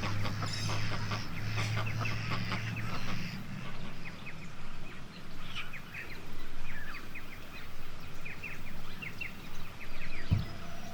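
Wild birds calling in a chorus of many short, quick chirps that fall in pitch and repeat irregularly. A low steady hum sits under the first three seconds.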